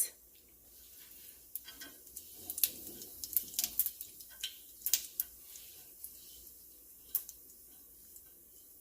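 Cumin seeds crackling in hot olive oil in a pot: scattered sharp pops, thickest between about one and a half and five seconds in, then thinning out.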